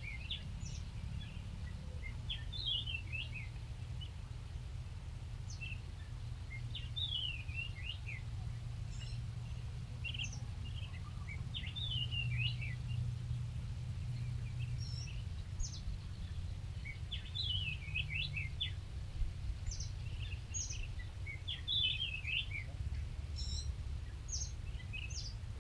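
Small birds chirping in short, quick clusters of rapid notes every couple of seconds, over a steady low rumble.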